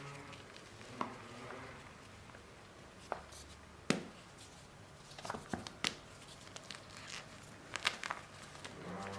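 Soft gym chalk and cornstarch paste being crumbled and pressed by hand: scattered small crumbles and crackles, with the sharpest about four seconds in and small clusters around five to six seconds and near eight seconds.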